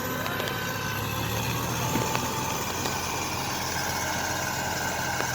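Heavy vehicle's engine running steadily at low revs.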